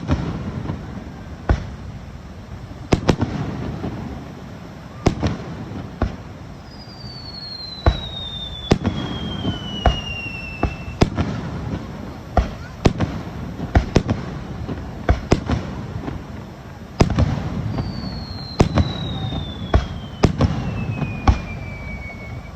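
Aerial fireworks display: shells bursting in a rapid series of sharp bangs over a low rumble of echoing reports. Twice a long whistle slides down in pitch, each lasting about four seconds.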